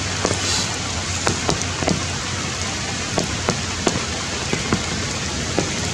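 Steady rain falling, with many separate drops striking close by on top of the constant hiss.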